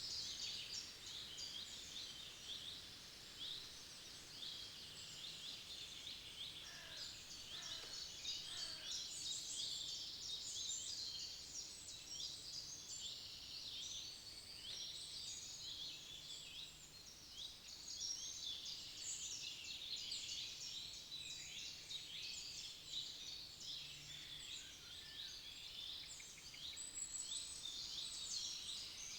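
Dense chorus of forest songbirds, many high chirps and trills overlapping throughout, with a few lower calls about seven seconds in.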